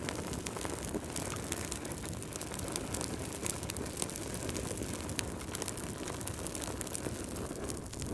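Wood fire crackling: a steady low rumble of burning with frequent small snaps and pops.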